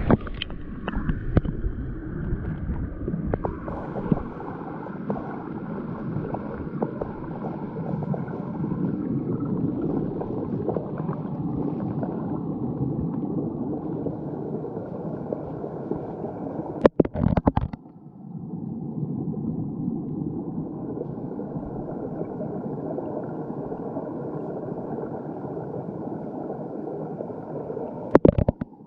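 Muffled underwater sound of a creek pool, picked up by a GoPro lowered into the water on a rope: a steady, low gurgling rush of moving water. There are brief sharp knocks about 17 and 28 seconds in.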